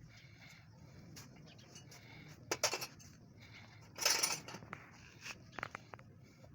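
Metal parts and hand tools being handled: a sharp clink about two and a half seconds in, a louder brief clatter about a second later, and a few lighter clicks near the end, over a low hum.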